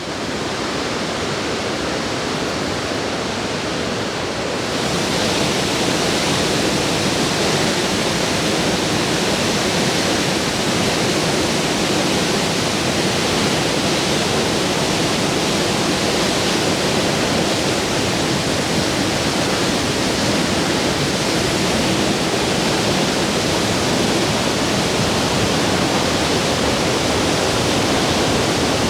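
Plodda Falls, a 46-metre waterfall in spate after heavy rainfall, pouring with a steady, dense rush of water. It grows a little louder and hissier about five seconds in.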